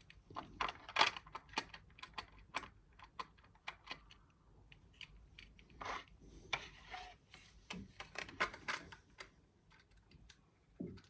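Plastic Lego bricks clicking and clattering as they are handled and pressed together: irregular small sharp clicks, busiest about a second in and again from about six to nine seconds.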